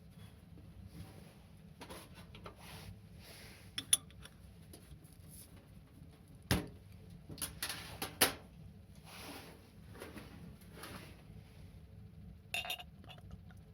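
Light clinks and knocks of dishes or utensils being handled, with soft rustling between; the sharpest knocks come about four, six and a half and eight seconds in.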